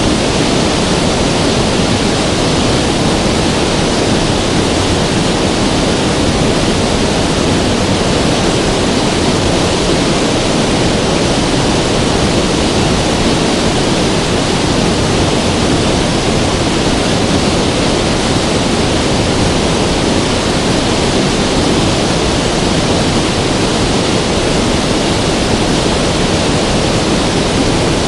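River water rushing, a steady unbroken roar of flowing water.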